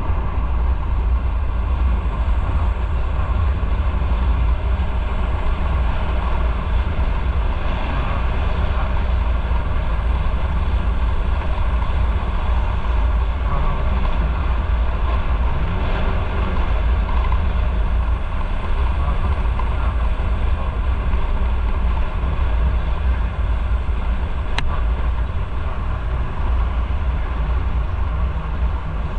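Motorcycle riding at a steady pace: a continuous heavy rumble of engine, road and wind noise on the camera mic. A single sharp click comes late on.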